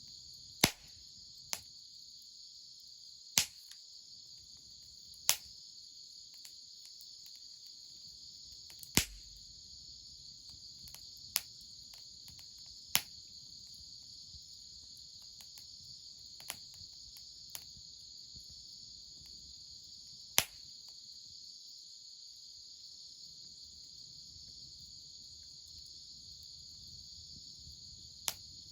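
Crickets chirring steadily and high-pitched, with about ten sharp, irregular pops from a crackling wood fire.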